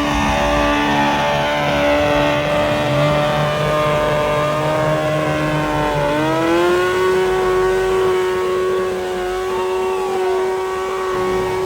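Truck engine held at high revs for a burnout, a steady high drone that steps up in pitch about six seconds in and holds there.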